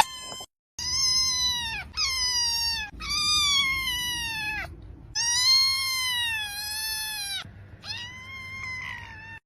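A cat meowing: five long, drawn-out meows in a row, several dropping in pitch at the end.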